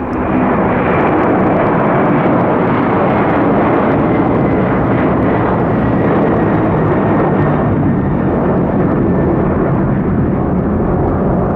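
Twin turbofan engines of a departing Boeing 767-400 jet, a loud steady roar with a faint whine slowly dropping in pitch.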